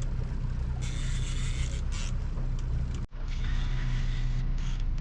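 Boat motor running steadily, a low even hum with hiss above it that swells and fades, cut off for an instant about three seconds in.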